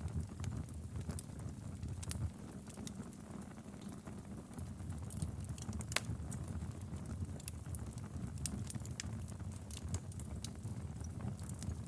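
Wood fire crackling, with frequent sharp pops and snaps over a steady low rumble of flame; one louder pop about halfway.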